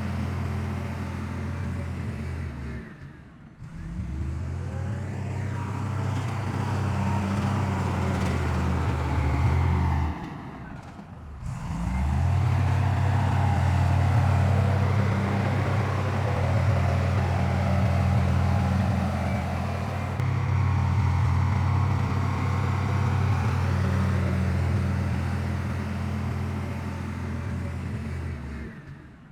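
Heavy diesel engines of earthmoving machinery running steadily under load, with two brief drops about 3.5 and 11 seconds in where the sound cuts between shots.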